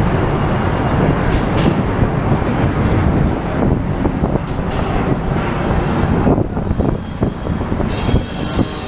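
Honda Civic engine running through an exhaust with the muffler deleted, a loud, steady, rough rumble.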